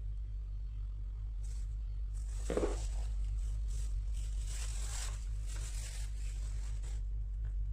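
Unboxing packaging being torn and peeled, heard as a run of ripping, rasping strokes, loudest about two and a half seconds in. A steady low hum sits underneath.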